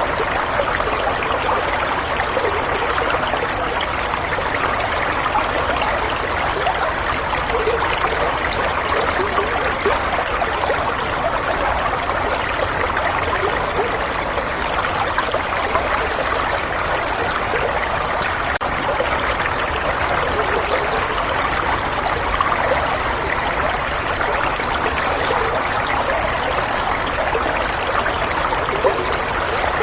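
Running water flowing steadily, an even, unchanging rush with fine splashing detail.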